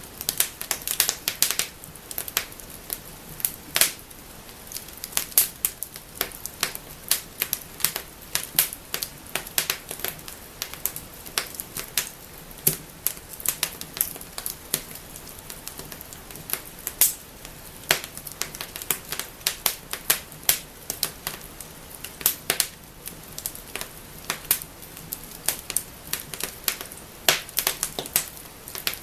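Wood fire in a fireplace crackling and snapping: irregular sharp pops and clicks over a soft steady hiss, with now and then a louder snap.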